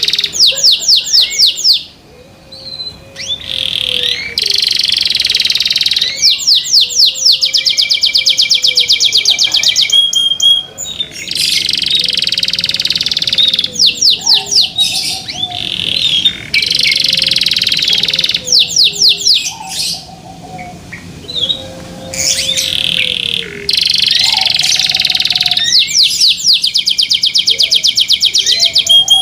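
Domestic canary singing loudly: long song phrases of very fast, high trills, broken by short pauses every few seconds.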